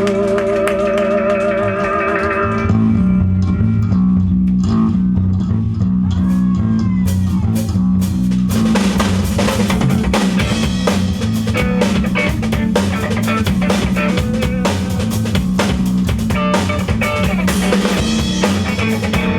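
Rock band playing live with electric guitar, bass and drum kit. A wavering held chord gives way after about two and a half seconds to a repeating bass line with drums, and the full band with cymbals comes in about eight and a half seconds in.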